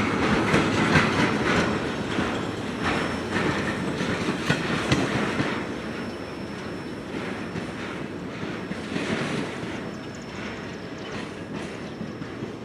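Railroad cars rolling past, their wheels clacking over rail joints, the sound growing gradually quieter as the train moves away.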